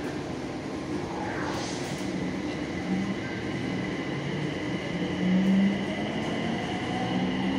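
BTS Skytrain electric train heard from inside the car as it pulls out of the station: steady running rumble, with a motor whine that rises slowly near the end as the train gathers speed.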